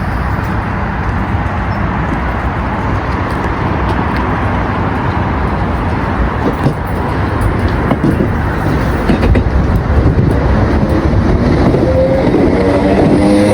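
A train running close by on the rails with a loud, steady rumble and a few faint clicks. Near the end a whine comes in and rises in pitch, as of traction motors picking up speed.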